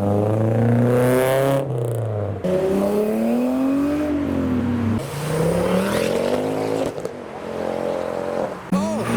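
Car engines accelerating away, the pitch climbing and dropping again several times as the cars rev through the gears.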